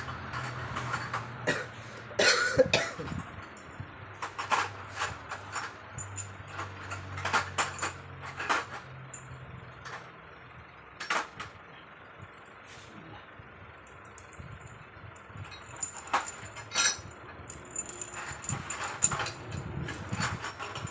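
Metal engine parts and hand tools clinking and knocking as they are handled during engine assembly, in irregular strikes, over a low steady hum that stops about eight and a half seconds in.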